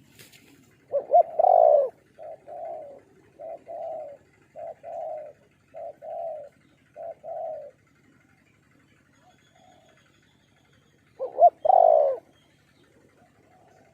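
Spotted dove cooing: a loud call about a second in, then six softer coos about one a second, and another loud call near the end.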